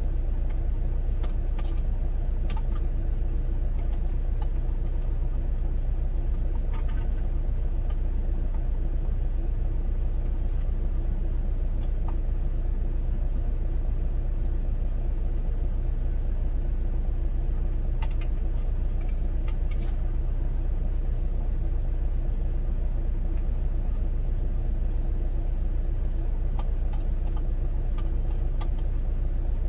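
Semi-truck engine idling, a steady low rumble with a constant hum, heard from inside the cab, with scattered small clicks and rattles.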